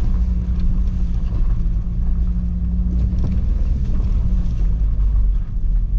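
Car driving slowly over a potholed dirt farm track, heard from inside the cabin. There is a steady low engine drone and a constant rumble of tyres and body over the rough ground, with a couple of light knocks about three seconds in. The drone fades about four and a half seconds in.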